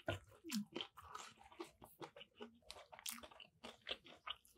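A person chewing a crispy fried Nashville hot chicken sandwich: a run of irregular crunches as the breading is chewed.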